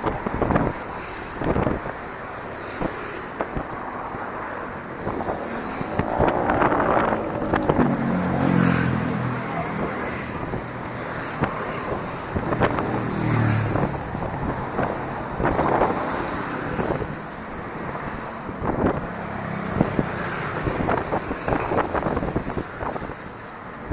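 Bicycle riding over a rough dirt trail, rattling and knocking over bumps, with wind on the microphone. A low hum that rises and falls comes through in the middle.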